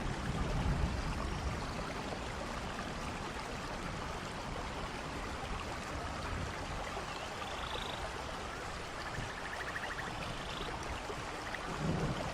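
Steady rushing of waterfall and running water in rain, with a few faint high chirps now and then. A low rumble of thunder builds near the end.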